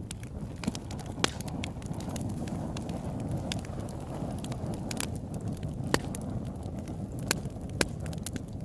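Campfire burning: a steady low rumble of flames with irregular sharp crackles and pops.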